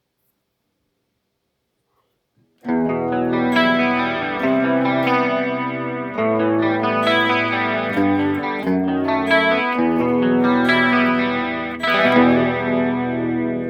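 Electric guitar played through a chorus pedal, starting after silence about two and a half seconds in and moving through a series of sustained, ringing chords.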